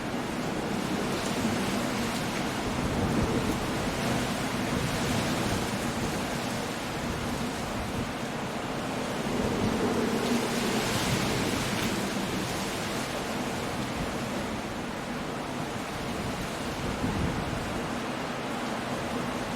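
Coastal storm: rain and wind with sea surf breaking, a steady rushing that swells louder a few seconds in and again about halfway through.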